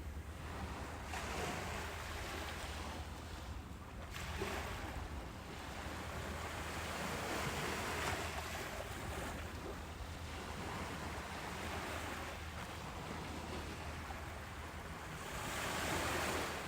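Ocean waves breaking on a beach: a steady rush of surf that swells and ebbs with each wave, the strongest surge near the end, over a low rumble.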